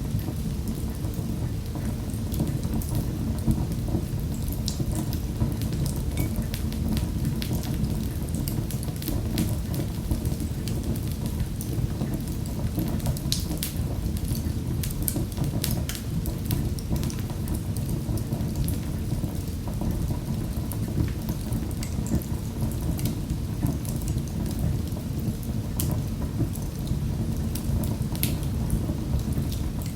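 Wood fire in a fireplace crackling: many sharp pops and snaps over a steady low rumble of burning.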